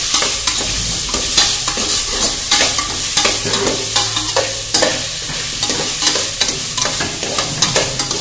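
Chicken bones and masala frying and sizzling in hot oil in a metal pot, stirred with a metal spatula that scrapes and knocks against the pot again and again.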